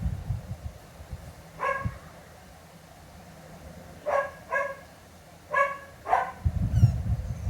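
A dog barking, five short barks: one a little over a second in, then two quick pairs over the next few seconds. A low rumble swells near the end.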